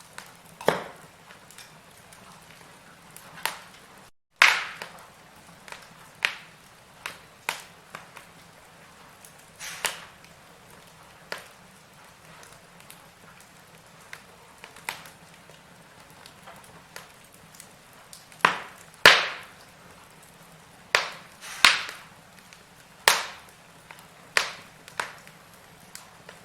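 Firewood burning in a fireplace: irregular sharp crackles and pops over a soft steady hiss, with a cluster of louder pops about two-thirds of the way through. The sound cuts out for a split second just after four seconds in.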